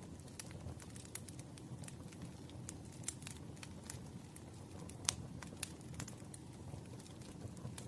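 Burning firewood crackling: irregular sharp pops and snaps over a low steady rumble, the loudest pop about five seconds in.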